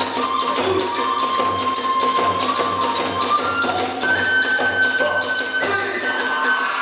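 Kagura festival music: a bamboo transverse flute playing a melody of long held notes, stepping up to a higher note about four seconds in, over a steady big-drum beat and rapid clashing of small hand cymbals.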